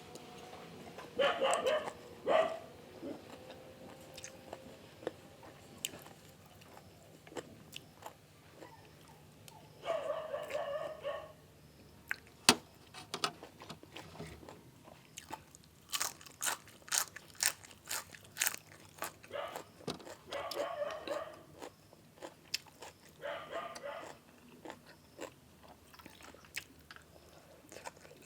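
Close-miked eating: chewing and biting through papaya salad with rice noodles and crunchy boiled field snails, with crisp crunches and many sharp clicks, thickest about two-thirds of the way in. A few louder second-long mouth sounds come between the mouthfuls.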